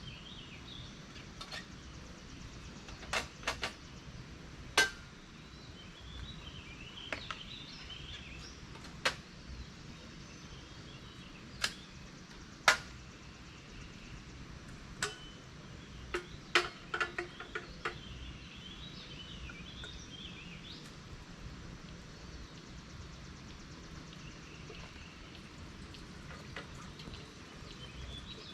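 Campfire crackling, with a dozen or so sharp, irregular pops, over night ambience with scattered chattering calls of clicking frogs.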